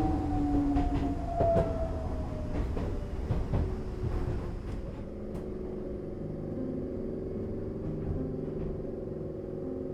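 Enoden (Enoshima Electric Railway) train running on the rails, with a few wheel knocks in the first couple of seconds and a motor whine that slides down in pitch, then settles into a steady hum over a low rumble.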